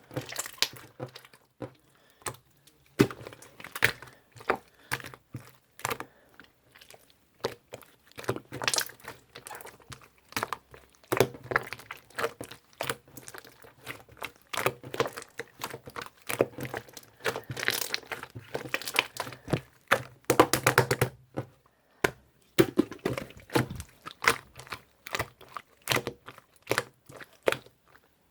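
Irregular close-up crackling, crinkling and clicking, like something being handled, crushed or torn, with short pauses between clusters.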